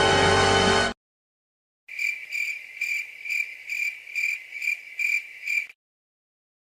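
Music cuts off about a second in. After a short gap, a crickets-chirping sound effect follows: a high chirp repeating evenly about two and a half times a second for nearly four seconds, then it stops.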